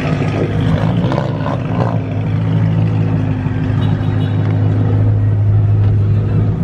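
Car engine running loudly at a steady, held pitch, a little louder toward the end.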